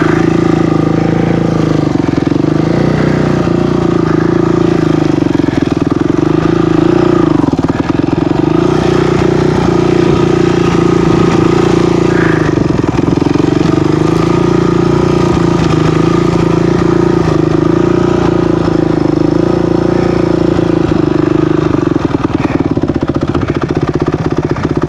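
Off-road vehicle engine running steadily under load, heard close up from on board. Its pitch dips briefly a few times as the throttle eases, then picks back up.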